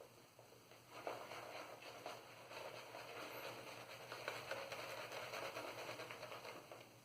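Synthetic shaving brush agitating Stirling shaving-soap lather on a face in circles: a faint, wet swishing full of fine crackles. It starts about a second in and stops just before the end.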